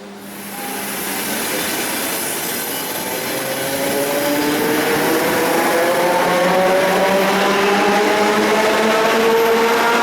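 ED4M DC electric multiple unit running through the platform, its traction motor whine climbing steadily in pitch as it picks up speed, over wheel-and-rail noise that swells about half a second in and keeps growing louder.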